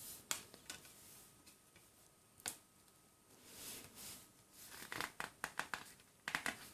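Faint handling of an album's contents by hand: scattered clicks and taps with short paper-and-plastic rustles, busiest in the second half.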